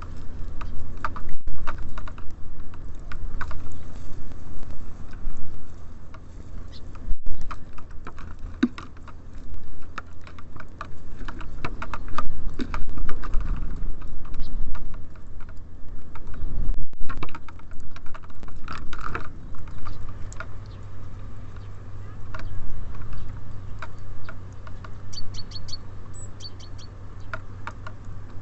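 Small songbirds pecking and scrabbling at seed on a bird feeder: a dense, irregular patter of taps and clicks over a steady low hum. Near the end come a few short high calls in quick groups of three.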